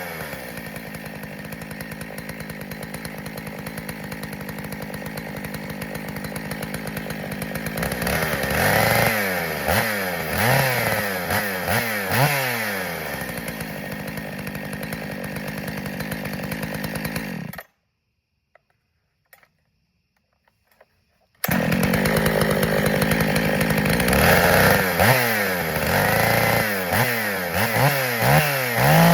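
Husqvarna 266SE two-stroke chainsaw running just after a cold start: it idles steadily for several seconds, then is revved up and down in repeated throttle blips. The sound drops out completely for about four seconds past the middle, then the saw is heard revving again. It holds its tune, with no sign of air leaks.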